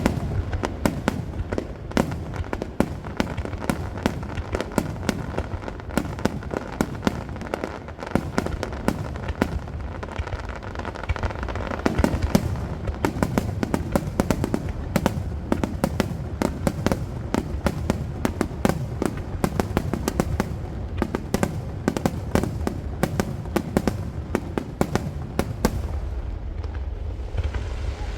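Grand starmine fireworks finale: a continuous rapid-fire barrage of aerial shells bursting, with many sharp bangs in quick succession over a steady low rumble.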